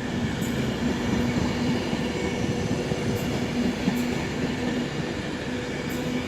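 Class 390 Pendolino electric train moving through the station, a steady running noise with a level hum.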